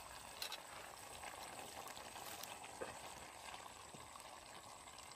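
Faint sizzling of chicken pieces cooking in a pot over a wood fire, with a few soft taps as chopped tomato pieces drop in.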